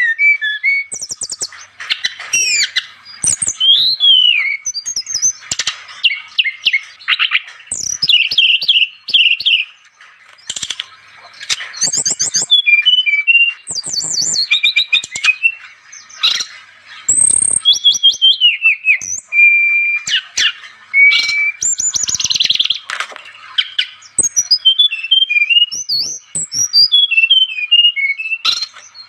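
Small songbirds calling energetically and almost without pause: rapid chirps, fast trills and down-slurred whistled notes overlapping one another, with a few short steady whistles around the middle. This is a recording of birds calling of the kind played to lure wild birds.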